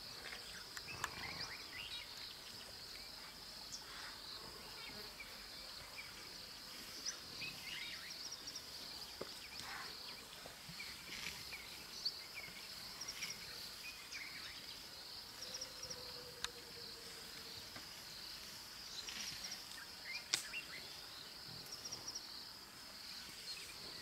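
Steady high-pitched insect chorus, with scattered short bird chirps and a few faint clicks over it.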